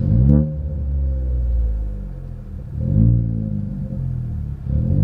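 Ford Fiesta Zetec S EcoBoost engine through a Cobra cat-back performance exhaust, running with a deep rumble and rising in revs three times as it is accelerated in traffic.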